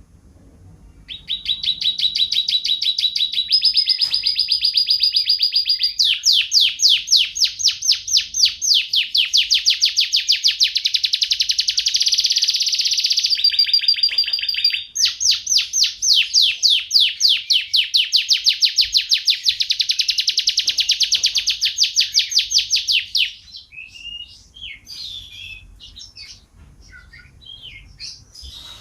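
Domestic canary singing a long song of very fast rolling trills, switching several times between trill types, then breaking off; near the end only soft scattered chirps remain.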